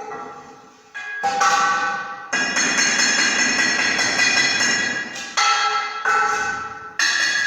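Metal being struck at uneven intervals, each blow leaving a ringing tone that dies away; for a few seconds in the middle the blows come faster and the ringing runs together.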